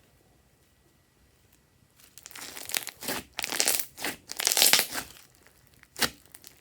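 Glossy slime squished and kneaded by hand, making sticky crackling and popping. It starts about two seconds in as a run of bursts and ends with two short squishes near the end.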